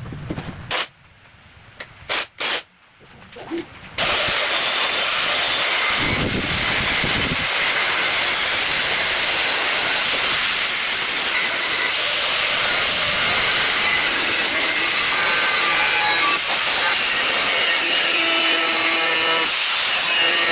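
A few clicks, then about four seconds in a loud steady hiss starts and holds, like air or spray under pressure, with a faint steady hum joining it near the end.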